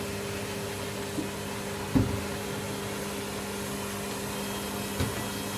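Candy washing machine running mid-cycle: a steady motor hum, with a dull knock about two seconds in and another near the end.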